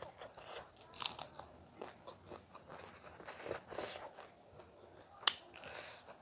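A person chewing and crunching food eaten by hand, with a run of crackly, crunchy bites; the sharpest crunch comes about five seconds in.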